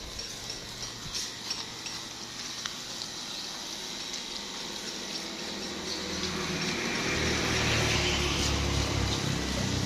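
Water running and splashing steadily, growing louder over the last few seconds.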